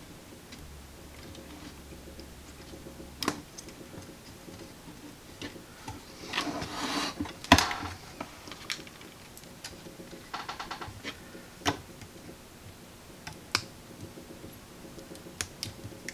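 Small clicks, taps and scraping from wires and hand tools being handled on a tube radio chassis during rewiring. The loudest is a sharp click about seven and a half seconds in, right after a second or so of scraping, and a quick rattle comes around ten seconds in.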